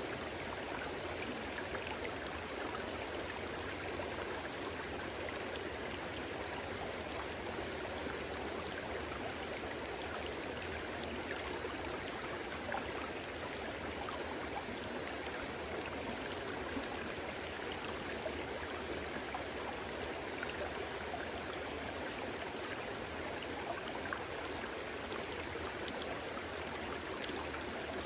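Stream water flowing steadily, with small splashes and gurgles here and there.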